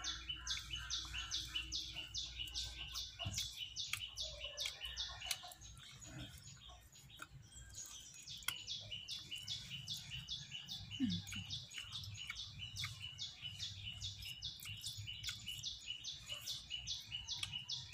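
A small bird chirping over and over in an even rhythm, about three high chirps a second, in two long runs with a pause of a few seconds about a third of the way in.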